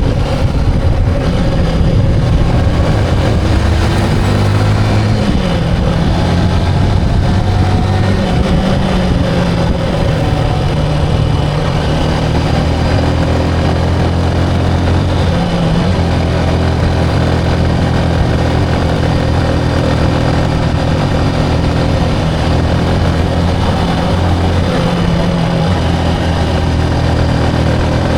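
Motorcycle engine running steadily while riding, its pitch shifting up and down a few times with the throttle.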